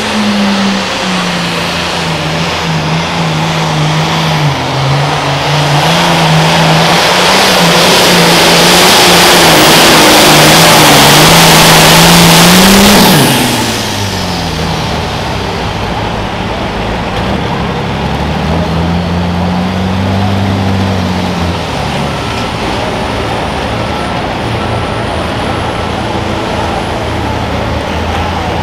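Super Farm pulling tractor's diesel engine running at full throttle under load, getting steadily louder for about thirteen seconds. It then backs off sharply as the throttle is cut at the end of the pull. After that comes one short rev that rises and falls, then the engine runs lower and steady.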